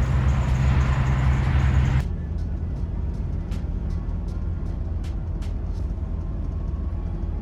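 Car driving, heard from inside the cabin: a steady engine drone with road rumble and hiss. About two seconds in it cuts off abruptly, leaving a quieter low rumble with a few faint ticks.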